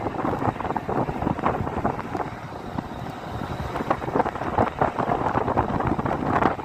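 Wind buffeting the microphone in an irregular, fluttering rush, with a vehicle running underneath.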